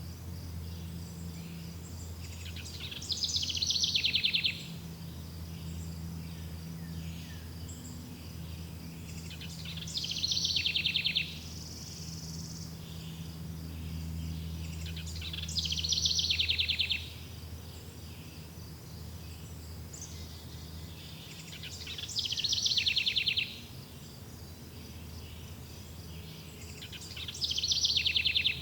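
A songbird repeating the same short song five times, about every six seconds, each phrase ending in a fast buzzy trill, over the steady high chirring of insects and a low steady rumble.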